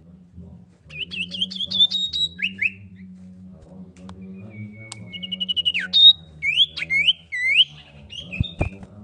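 Common iora calling: a quick series of rising notes about a second in, then a fast trill and several rising and falling whistled sweeps from about four seconds in. A steady low hum runs underneath.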